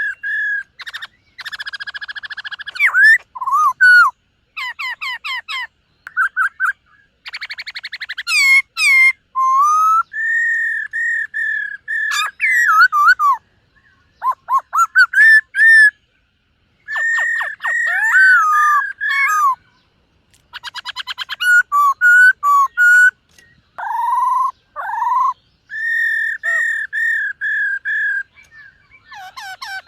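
Black-throated laughingthrush singing: loud, clear whistled phrases of repeated notes and quick trills with sweeping pitch, broken by short pauses.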